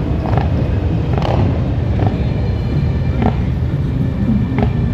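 Steady low rumble of a running vehicle, with a few brief fainter sounds over it.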